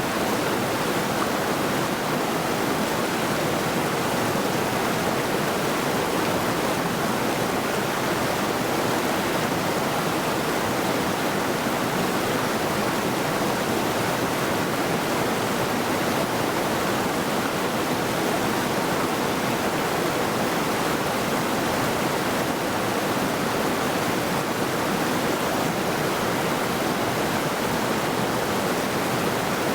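Middle Saluda River, a mountain river, rushing and splashing over rocks, a steady, even roar of running water.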